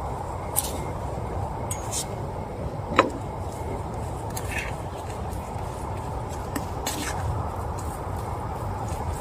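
Steady rain hiss with scattered sharp taps and clicks, the loudest about three seconds in.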